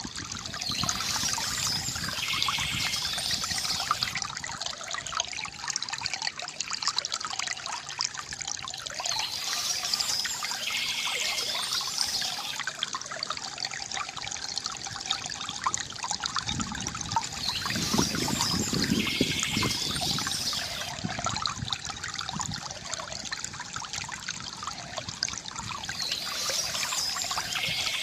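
Water trickling and gurgling steadily from a bamboo fountain, with a brighter hissing splash that comes back about every eight to nine seconds.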